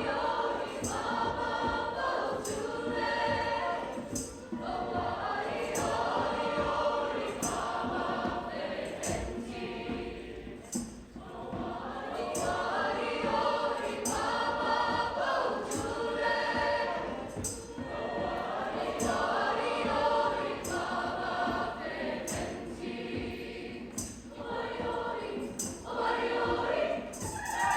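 High school choir singing, with sharp percussion hits keeping a beat about once a second.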